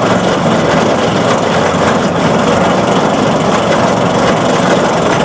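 Steel roller coaster ride heard from aboard the train: a loud, steady, dense rattle and rush of track and wind noise.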